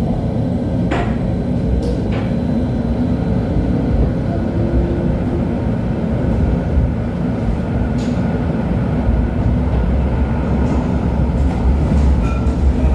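A 1997 LHB TW2000 light-rail car running on track, a steady low rumble with a few sharp clicks. A low hum grows stronger near the end.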